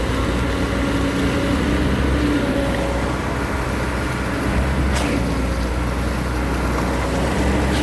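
A motor vehicle running steadily, a constant engine drone with road noise, with one sharp click about five seconds in.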